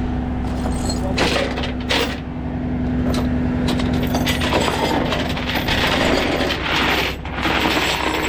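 A truck engine running steadily under repeated metallic clanks and rattles, with a steady hum that drops out about five seconds in.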